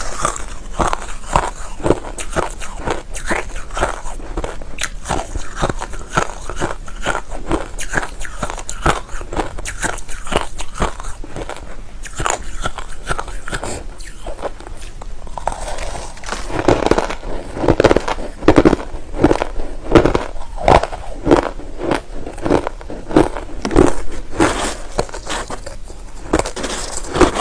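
A person chewing white crushed ice close to the microphone: a steady run of loud crisp crunches, bite after bite, growing heavier about halfway through.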